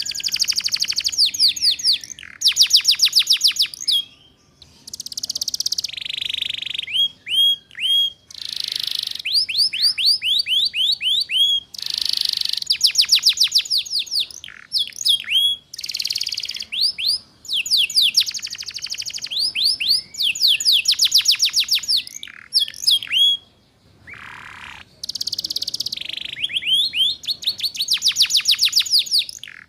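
Domestic canary singing in fast trills of rapid, downward-sweeping high notes. The phrases last a second or two and are separated by short pauses, in the rattling 'ngeriwik' song style.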